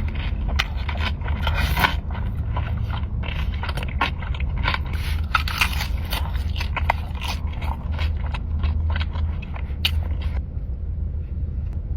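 Close-miked eating: a person chewing and crunching crisp food in quick, irregular crackles that stop about ten seconds in. A steady low hum runs underneath.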